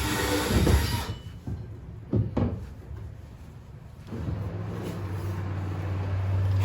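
Power drill boring a hole in the kayak's plastic deck for the motor-mount bolts, cutting off about a second in. A couple of short knocks follow, then a steady low hum starts about four seconds in.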